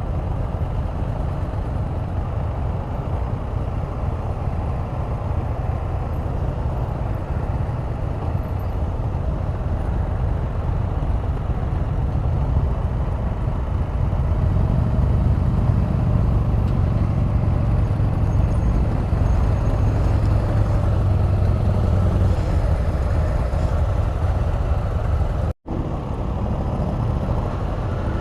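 Riding noise aboard a Can-Am Spyder RT three-wheeler: a steady low rumble of engine, wind and road that grows a little louder about halfway through, with a momentary dropout near the end.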